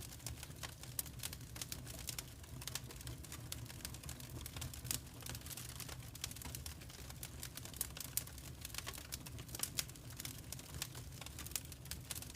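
Wood fire crackling in a fireplace: many quick, irregular pops and snaps over a low, steady rumble.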